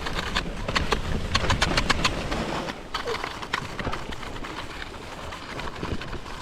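Sit ski (monoski) running down a snow slope: the ski scrapes and hisses over the snow, with a quick run of sharp clicks and knocks from about half a second in to about three and a half seconds, then a steadier, quieter slide.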